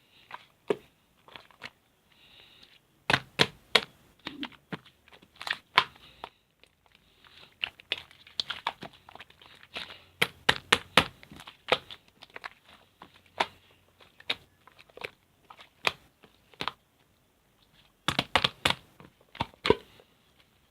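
Hands squishing and pressing slime, giving irregular sharp clicks and pops that come in flurries with short pauses between.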